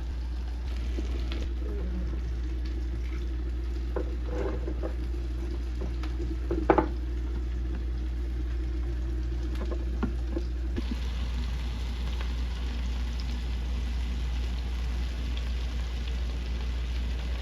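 Food frying in a pan, a steady sizzle that grows louder and brighter about eleven seconds in. A few sharp knocks, the loudest about seven seconds in, over a steady low hum.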